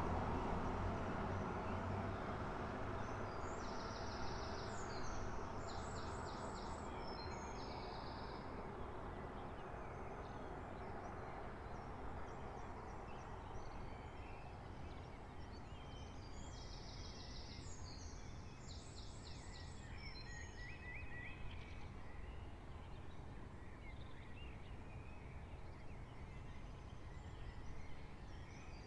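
Early-morning street ambience: a passing vehicle fades away over the first several seconds, leaving a low steady hum, while a songbird sings short, high, trilled phrases several times over.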